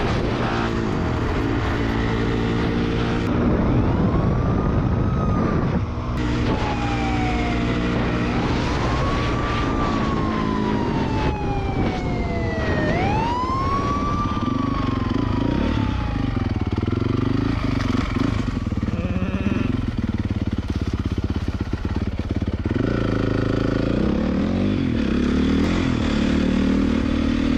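Dirt bike engines running and revving through the chase, with a police siren wailing in repeated rising-and-falling sweeps in the middle.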